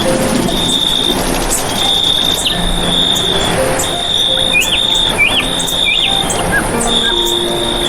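An insect trilling in repeated bursts of about a second, with birds chirping briefly in short hooked notes near the middle. Faint held low tones run underneath.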